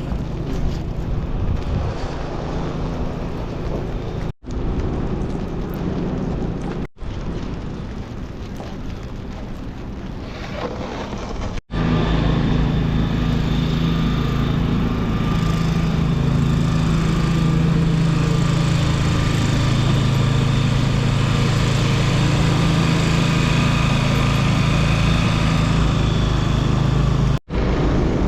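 City street traffic noise in several short clips cut together, with vehicles running steadily. From about twelve seconds in, a louder clip carries a steady low engine hum.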